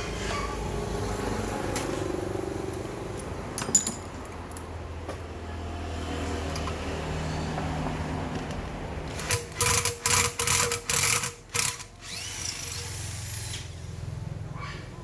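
A power tool run in about six short bursts about two-thirds of the way in, over a low steady hum.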